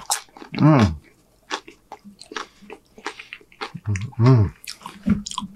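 Chewing a mouthful of crunchy tortilla-chip nachos: many short crisp crunches and mouth clicks, with two short voiced sounds through the full mouth that fall in pitch, about half a second in and again around four seconds.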